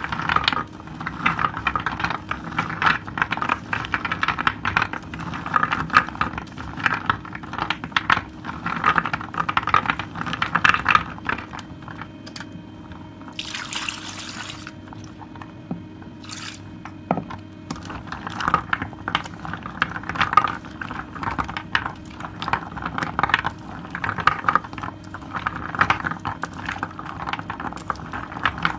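Wet soap being lathered and squeezed by hand: squelching and crackling foam in repeated strokes, with a brief hiss of water near the middle.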